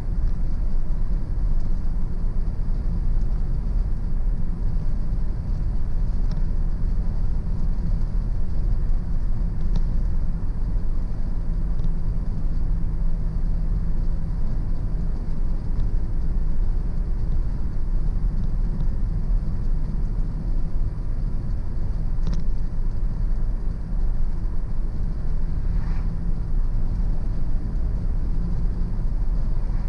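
Car driving steadily along a road: continuous low rumble of tyres and engine, with a couple of faint ticks about two thirds of the way through.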